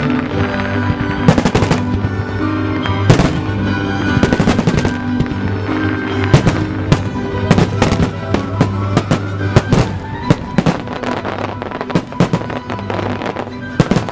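Fireworks shells bursting in quick, irregular bangs over loud music: a music starmine, with the shells fired in time to the music.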